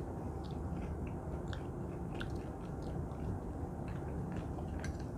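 People chewing beef steak, with irregular soft clicks and smacks; the steak is tough and hard to chew.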